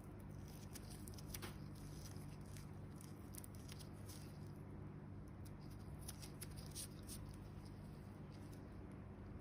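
Faint, irregular crackling and ticking of dry dead skin being picked and peeled off a foot by hand, over a steady low hum.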